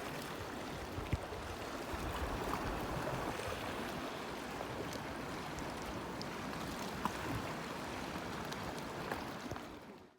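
Lake Superior waves washing steadily against the shore, fading out just before the end.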